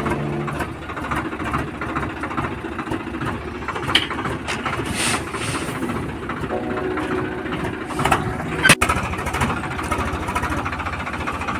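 Diesel tractor engine running with a rapid chugging beat. A single sharp knock comes about nine seconds in.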